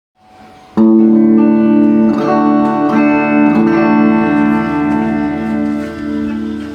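Guitar played through a Marshall MG30DFX amplifier being tested after repair: a chord is struck about a second in and left ringing, with a few more notes picked over it as it slowly fades.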